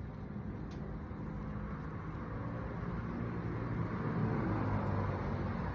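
Engine of a motor vehicle running nearby, with a low hum that grows louder over the first four or five seconds, as of a vehicle approaching.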